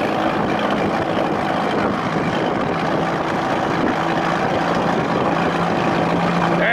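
1993 Evinrude two-stroke outboard, a 25 hp built up toward 35 hp, running steadily at full throttle as the boat speeds across the lake, with heavy rushing wind and water noise over the engine.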